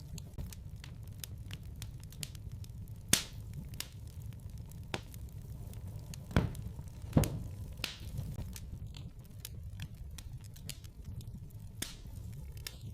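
Wood fire crackling in a fireplace: a steady low rumble with irregular sharp pops and snaps, the loudest about three, six and seven seconds in.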